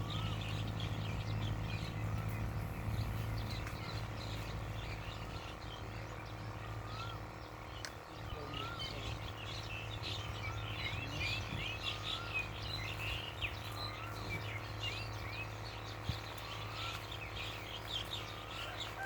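Birds chirping steadily, with many quick high chirps and a short curved call that repeats every second or two, over a steady low hum.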